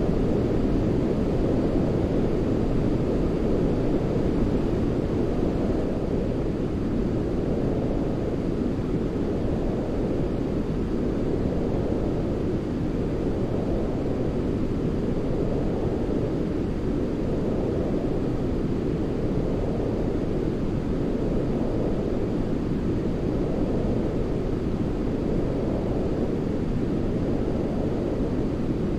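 Steady, deep white-noise-style rumble for baby sleep, weighted toward the low end like brown noise, gently swelling and easing about every three to four seconds.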